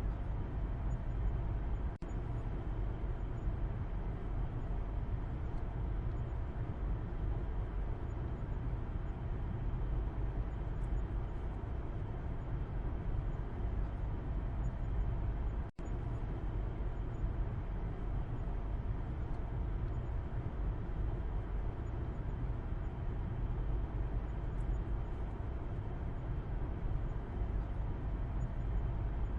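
Steady low rumble of a car's road and engine noise as heard from the back seat while driving along. The sound cuts out for a split second about halfway through.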